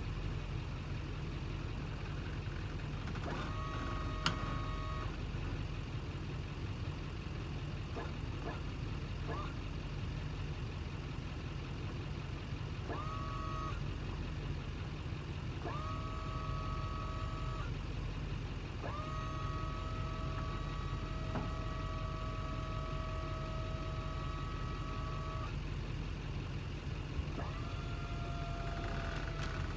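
A vehicle engine running steadily with a low rumble, while a higher whine sweeps up and holds for a few seconds, several times over. There is one sharp click a few seconds in.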